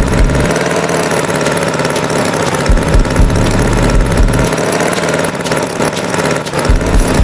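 Tractor engine running steadily, with uneven low thumps under a dense mechanical noise.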